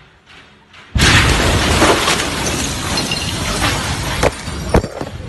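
Blast of the Beirut port explosion arriving with a sudden loud boom about a second in, followed by the continuous noise of shattering glass and falling debris, with a few sharp crashes near the end.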